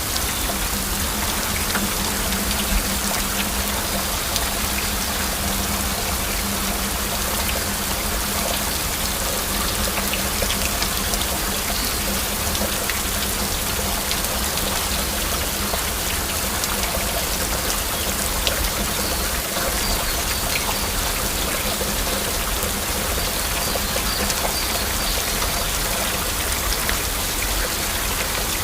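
Steady heavy rain, with many distinct individual drops landing, and a faint low hum running under it.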